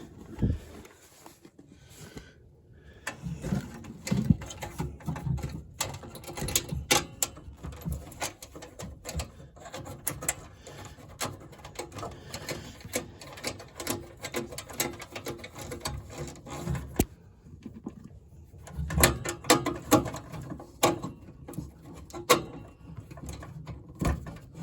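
Irregular clicks, taps and scraping as hand tools and small metal furnace parts are handled, with a few louder knocks.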